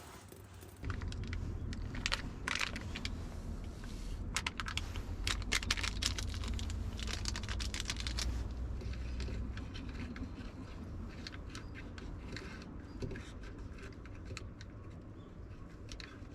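A low rumble that starts suddenly about a second in, typical of wind on the microphone, under a busy run of small clicks and rustles from things being handled. The clicks are thickest in the middle and thin out towards the end.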